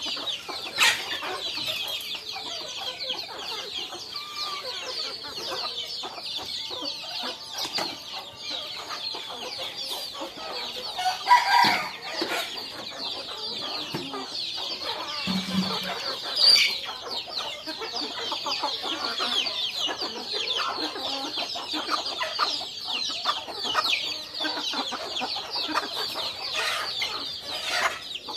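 Many baby chicks peeping without a break, a dense chorus of short, high, falling cheeps, with a few louder calls about a second in, near the middle and a little after.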